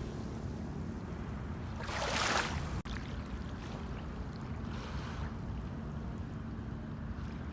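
A steady low motor drone runs under the shoreline ambience, with a wave washing up the beach, its hiss swelling and fading about two seconds in and again more faintly near five seconds.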